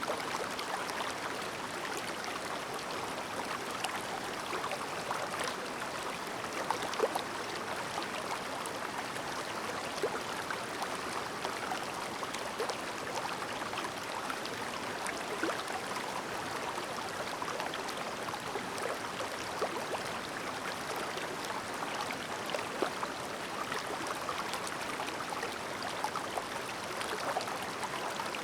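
Clear, shallow river babbling (seseragi): a steady, even flow of running water with small plinks and gurgles scattered through it.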